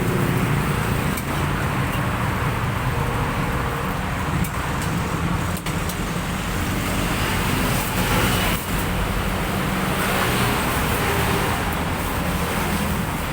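Steady rumble of road traffic with engines running, without a break.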